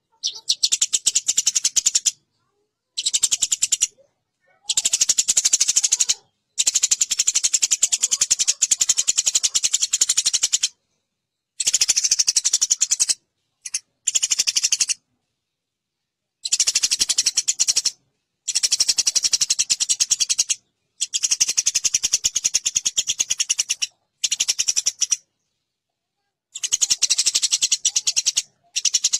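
Eurasian tree sparrows fighting: rapid, harsh chattering chirps in bursts of one to four seconds, each broken off abruptly by a short silence.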